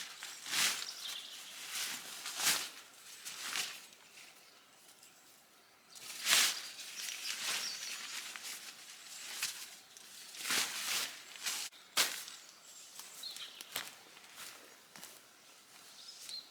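Irregular crunching and rustling of dry woodland debris being disturbed, in short bursts about a second apart with a pause partway through.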